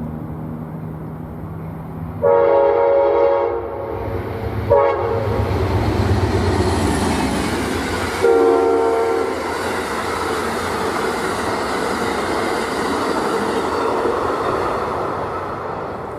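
Passenger train sounding its multi-tone horn (a long blast, a short one, then another long blast) as it approaches and passes, with the rumble and rail noise of the train swelling and then fading near the end.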